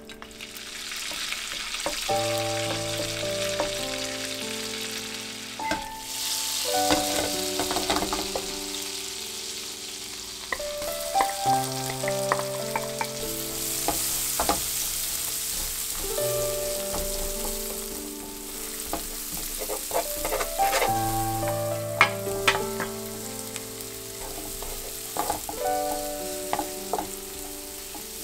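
Garlic, then sliced onion and whole shrimp sizzling in butter and olive oil in a nonstick frying pan, stirred with a wooden spatula that scrapes and clicks against the pan. Background music with held piano-like notes plays underneath.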